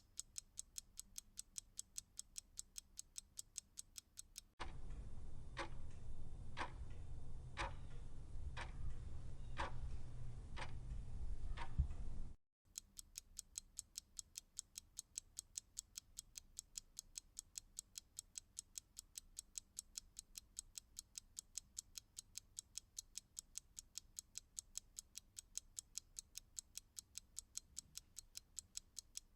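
Clock ticking quickly and evenly, several ticks a second. A few seconds in, a different clock cuts in for about eight seconds, ticking slower, about once a second, over a loud low hum. Then the quick ticking returns.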